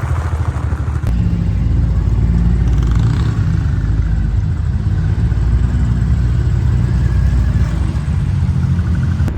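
Diesel truck engine running with a deep, steady rumble, getting louder after a click about a second in.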